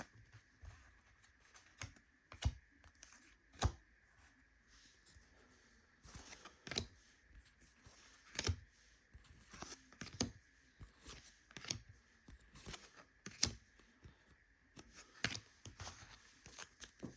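Trading cards being handled and laid down on stacks on a table: sharp light taps and slides about every second or two. A faint steady high hum runs underneath.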